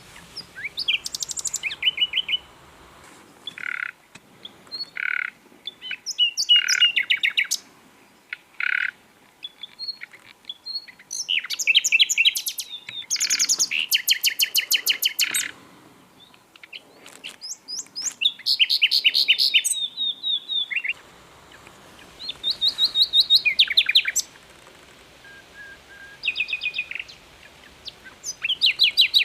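Common nightingale singing: a string of varied phrases, many of them fast runs of repeated notes and trills, with short pauses between phrases.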